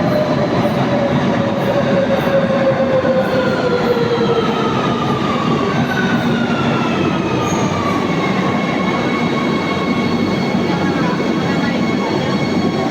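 Madrid Metro train in the station, its electric traction motors whining and falling slowly in pitch over the rumble of the wheels and cars, as the train slows.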